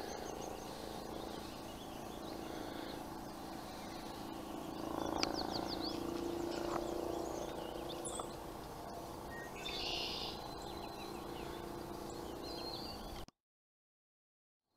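Small birds chirping and calling in open country, many short high notes over a steady low hum; the sound cuts off abruptly near the end.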